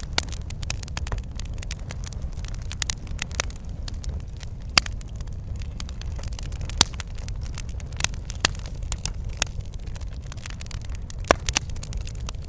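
Fireplace wood fire crackling: scattered sharp pops and snaps over a steady low rumble of the burning fire.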